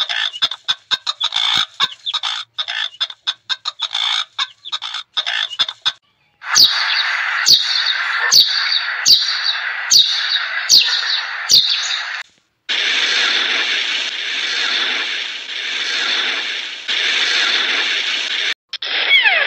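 A run of bird sounds: rapid irregular clicking and chirping, then a small bird's sharp falling call repeated about every 0.8 s, then a steady hiss in the second half.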